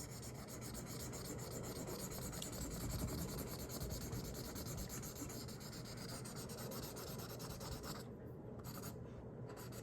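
Marker squeaking and rubbing across paper in steady colouring strokes, with two short pauses near the end.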